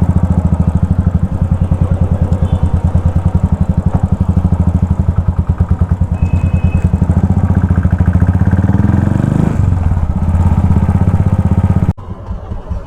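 Modified Royal Enfield Continental GT 535 single-cylinder engine idling loudly through aftermarket twin exhausts, with a steady, lumpy beat. It is louder than normal. The sound drops away suddenly near the end.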